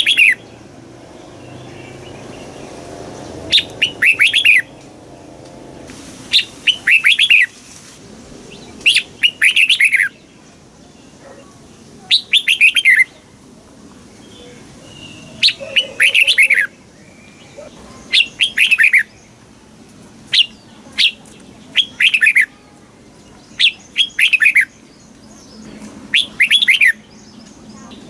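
Red-whiskered bulbul singing short, bright phrases of quick falling notes, repeated about every two to three seconds.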